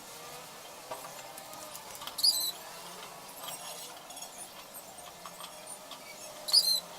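Two short, high-pitched chirping squeaks about four seconds apart, over a faint steady hum.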